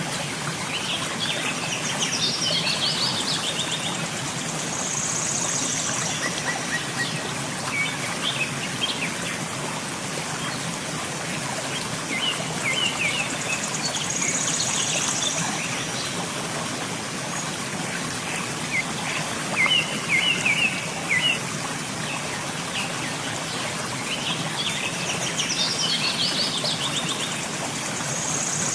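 Steady rush of falling water from a waterfall, with birds calling over it: bursts of quick chirps every few seconds and a high, thin trill three times.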